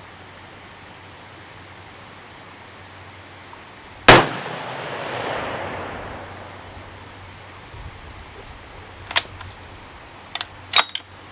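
A single 6.5 Creedmoor bolt-action rifle shot about four seconds in, its report echoing and rolling away over a few seconds. Near the end come a few sharp metallic clicks as the bolt is worked.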